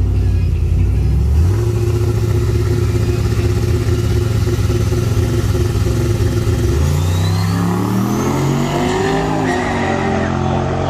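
A vehicle engine running at raised revs steps up in pitch about a second and a half in and holds there. From about seven seconds in it accelerates, its pitch climbing steadily with a high whine rising along with it.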